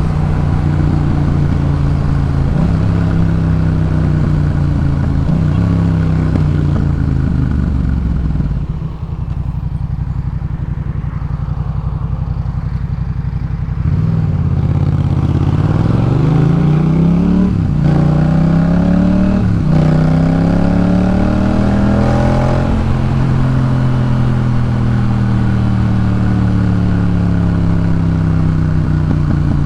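2018 Yamaha MT-07's parallel-twin engine through a Jeskap K4 full exhaust, under way: it pulls through a couple of gear changes, drops off when the throttle is closed about eight seconds in and runs low, then accelerates hard from about fourteen seconds with two quick upshifts before settling into a steady cruise that slowly eases off.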